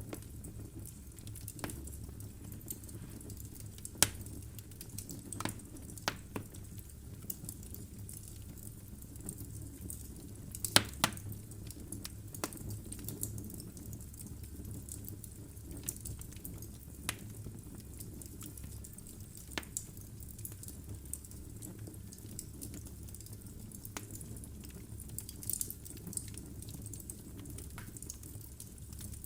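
Wood logs burning in a fireplace, crackling with irregular sharp pops over a low steady rumble and hiss. The loudest pops are a single one a few seconds in and a quick cluster of several about a third of the way through.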